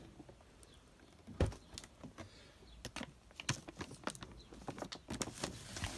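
Firework cake boxes being handled and turned over: scattered clicks and light rustling, with one louder knock about a second and a half in.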